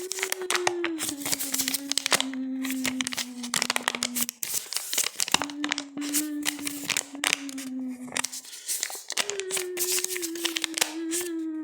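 Long, drawn-out creaking squeak with a gritty crackle, held in three long strokes that each slide slowly down in pitch, the third carrying on past the end.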